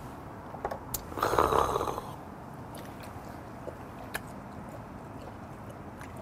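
A man chewing a mouthful of raw sawtail fish after a shot of soju. About a second in there is a loud breathy exhale, and a few small clicks come through.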